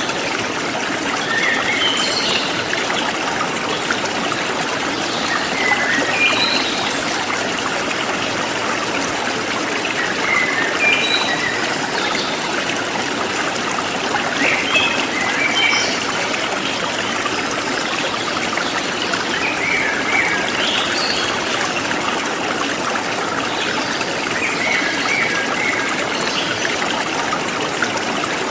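Forest stream flowing steadily over rocks, with small birds chirping in short phrases every few seconds.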